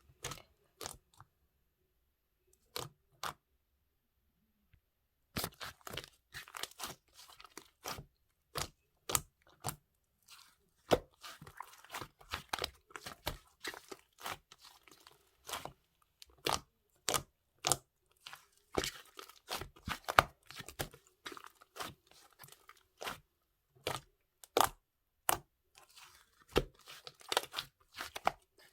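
Close, crisp crackling and crunching: many sharp irregular clicks. There is a pause of a few seconds near the start, then they come thick and fast.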